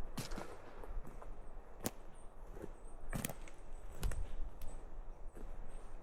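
Footsteps on a leaf-strewn forest path, with a few sharp cracks at irregular moments, as of twigs breaking underfoot.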